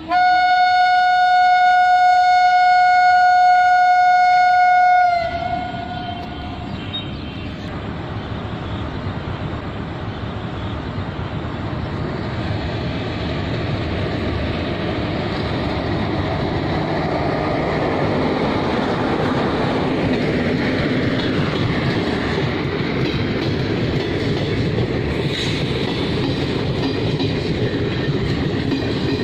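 An electric locomotive's horn sounds one long, steady blast of about five seconds, its pitch dipping slightly as it cuts off. After that comes the rolling noise of the ICF-coach passenger train on the rails, growing steadily louder as the train approaches and passes.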